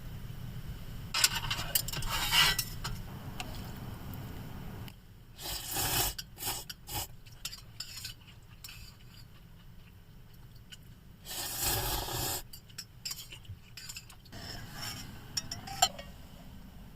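Cooking utensils scraping and clinking against a pot or pan: scraping passes of about a second each, about a second in, around six seconds in and near twelve seconds, with small clinks in between.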